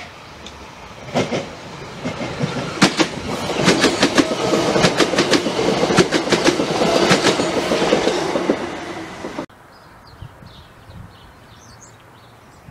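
A passenger multiple-unit train running through a station at speed: a rising rumble as it nears, then a rapid clickety-clack of wheels over rail joints and pointwork as the coaches pass. The sound cuts off abruptly about nine and a half seconds in, leaving quiet outdoor background with faint bird chirps.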